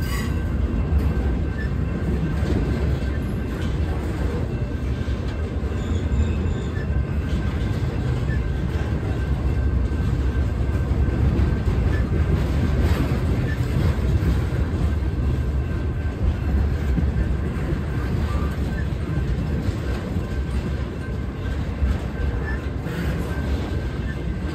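Freight train cars rolling past close by: a steady low rumble of wheels on rail, with a faint, thin, steady high tone over it.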